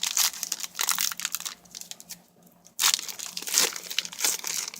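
Trading card pack wrapper crinkling and tearing as a new pack is opened, in a run of rustling bursts with a brief pause a little over two seconds in.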